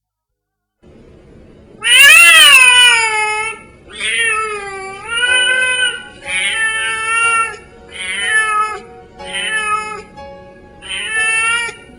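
A cat meowing loudly and repeatedly: seven long, drawn-out meows, each about a second long, beginning about two seconds in, the first being the loudest.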